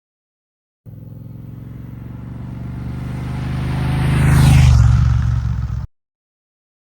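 Motorcycle passing by: the engine grows steadily louder to a peak about four seconds in, drops in pitch as it goes past, and cuts off abruptly.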